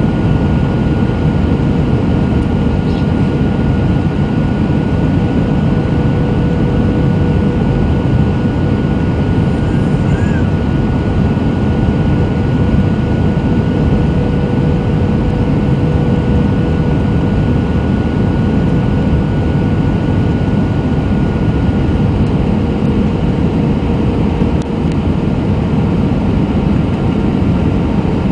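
Airbus A320 cabin noise during the approach: a steady rush of engine and airflow noise with a faint steady whine running through it, heard from inside the cabin.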